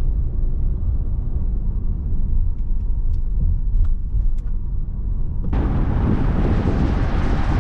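Car driving, heard from inside the cabin: a steady low engine and road rumble with a few light clicks, joined about five and a half seconds in by a loud steady hiss of wind or tyre noise.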